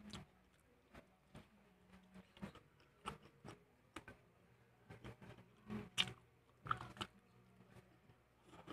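Close-miked chewing and biting of crispy breaded fried chicken, with irregular crunches that are loudest around six to seven seconds in.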